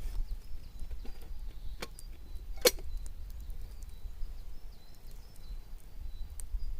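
Scattered sharp clicks and one loud crack about two and a half seconds in, over a low steady rumble, with a faint high thin bird-like call stepping in pitch in the second half.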